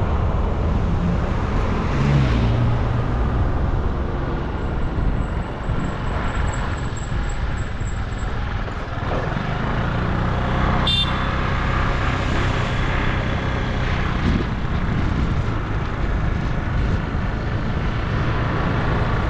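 Motor vehicle engine running steadily on a road ride, with traffic and road noise. The engine pitch shifts a couple of seconds in, and a single short, sharp high sound cuts through about eleven seconds in.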